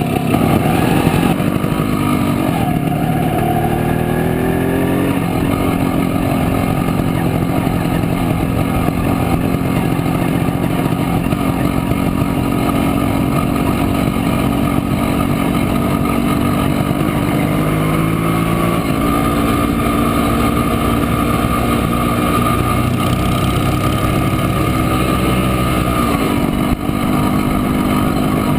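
Montesa Impala Comando 175 cc two-stroke single-cylinder engine running under way, heard from on board. The engine note climbs a few seconds in and changes pitch again around the middle and near the end, with a brief dip in level near the end, as with gear changes.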